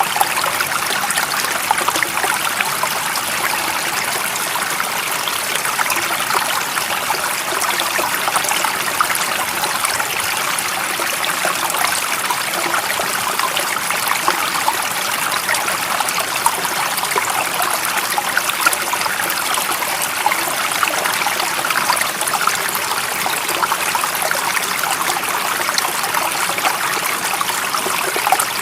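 Stream water flowing and babbling steadily, a dense, even rush with fine splashing detail and no change in level.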